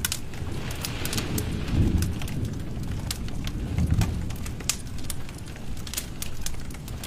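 Wood fire in a fireplace crackling: irregular sharp pops and snaps over a low rumble of burning that swells now and then.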